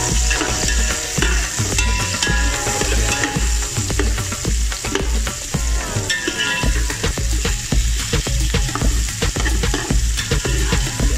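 Sliced red onion and garlic sautéing with a steady sizzle in an aluminium pot while a metal spoon stirs them, scraping and clicking against the pot and knocking it in a steady rhythm about twice a second.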